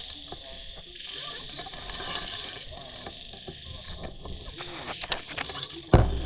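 Steady high-pitched insect trilling with scattered animal calls over it, and a sudden loud knock near the end.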